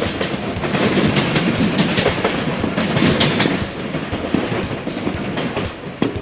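A container freight train's flatcars rolling past, the wheels clattering over the rail joints; the sound eases somewhat about two-thirds of the way through.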